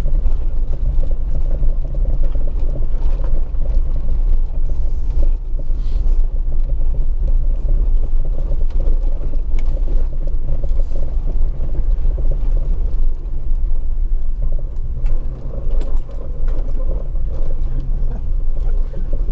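Jeep WJ Grand Cherokee driving slowly over frozen, rock-hard ground: the engine and drivetrain make a steady low rumble, with a few faint knocks.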